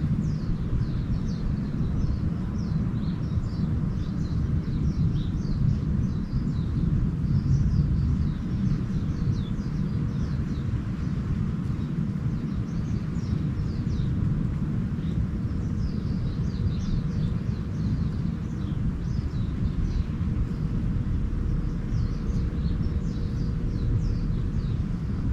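Small birds chirping in many short, quick, falling notes over a steady low rumble.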